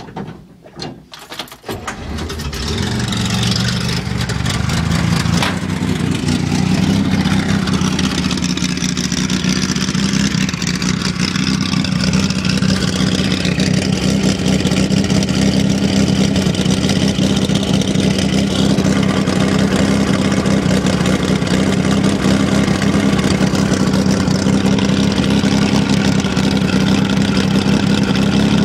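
1961 Corvair Rampside's air-cooled flat-six, straight-piped with the muffler deleted, starting up: a few cranking knocks, then it catches about two seconds in and settles into a loud, steady idle through the open pipe.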